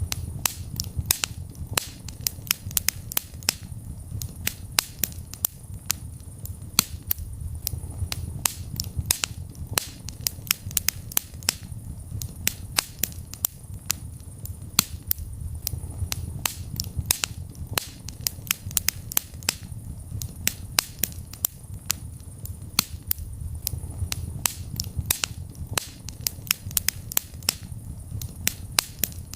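Wood fire burning in a fireplace: a steady low rumble of flames with frequent sharp crackles and pops, several a second at irregular intervals.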